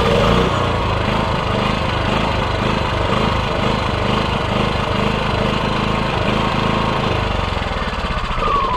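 Small engine starting up and running steadily with a rhythmic low pulse, then slowing and shutting off near the end. The machine has been reassembled and its stop switch now sits correctly, so it cuts out when switched off.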